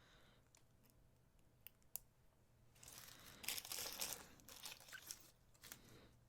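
A couple of faint clicks, then packaging rustling and crinkling for about three seconds, starting about halfway through, as small jewelry clasps are handled.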